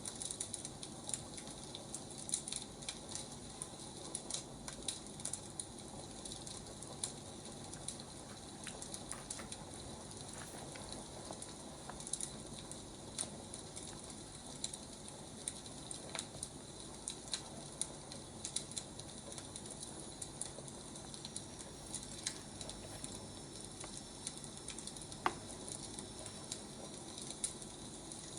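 Wood fire crackling: a steady soft hiss with many small, irregular pops and snaps.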